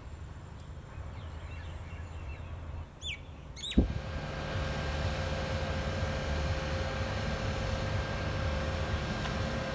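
Low outdoor rumble with two short falling bird chirps about three seconds in. A sharp click follows, and the sound changes to a steady rumble with a thin hum as an electric suburban train approaches along the line.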